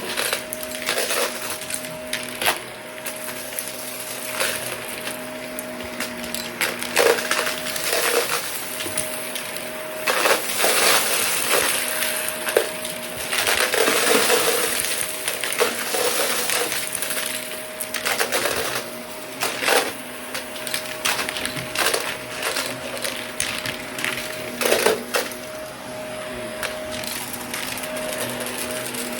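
Shark vacuum cleaner running with a steady motor whine and air hiss while picking up a small test mess: debris clatters and crackles irregularly through the cleaner head.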